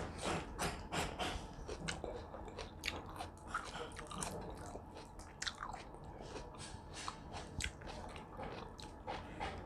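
A person chewing a mouthful of food close to the microphone: irregular wet clicks and crunches, several a second.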